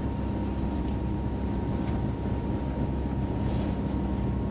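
Passenger train running at speed, heard inside the carriage: a steady low rumble of the running gear on the track with a constant hum.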